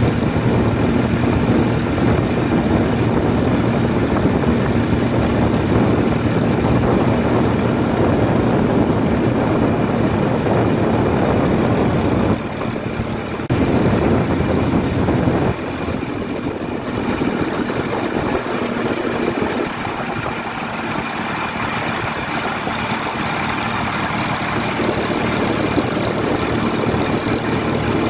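Heavy vehicle engine running steadily, dropping in level briefly about twelve seconds in and running quieter from about fifteen seconds on.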